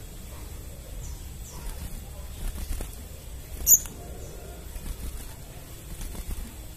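Crimson sunbird calling: one sharp, very high chip about three and a half seconds in, with faint high down-slurred notes before and after it, over a low steady hum.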